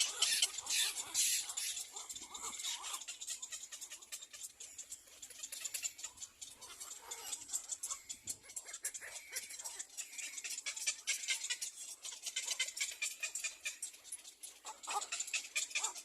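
Little black cormorants calling at the nest: a dense run of rapid high clicks mixed with short squeaky calls.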